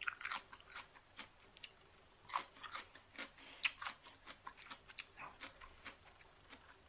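A person chewing food close to the microphone, with many short, irregular crunching clicks and mouth smacks.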